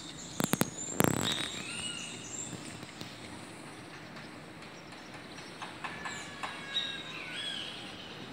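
Birds calling in short chirps, with a cluster of sharp clicks and a louder knock about a second in, over steady outdoor background noise.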